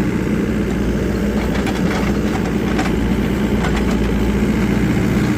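An engine idling steadily, with a few faint clicks or knocks over it.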